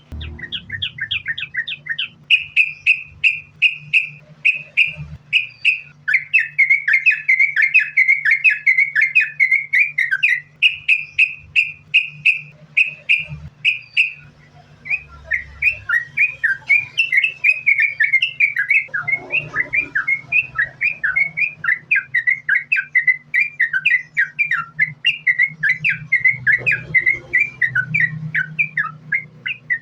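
Yellow-vented bulbul (trucukan) singing rapid, continuous runs of short chattering notes strung together, with a brief pause about halfway through. A faint steady low hum runs underneath.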